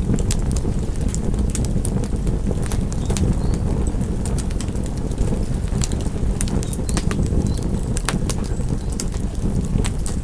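Wood fire burning: a steady low rumble of flame under irregular sharp crackles and pops.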